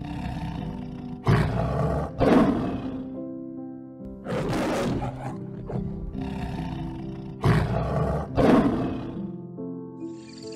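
A large wild animal roaring five times in loud, rough bursts over background music.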